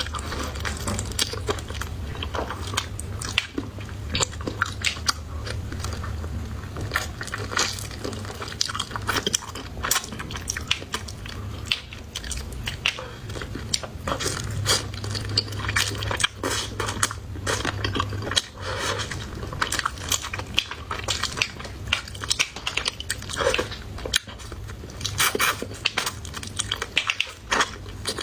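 Close-miked eating: a person biting and chewing with crisp crunching and wet mouth clicks, many short sharp bites throughout, over a low steady hum.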